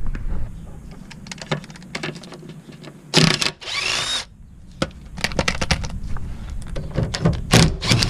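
Repeated clicks and knocks of tools or parts being handled, with a short squeaky rasp a little past three seconds in, over a low steady hum.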